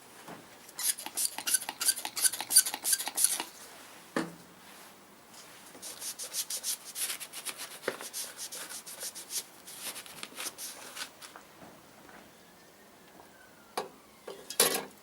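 Sandpaper rubbed by hand over a small rusty, powder-coated motorcycle part in quick back-and-forth strokes, in two spells, taking the coating down to bare metal. A single knock falls between the spells, and a few short sharp sounds come near the end.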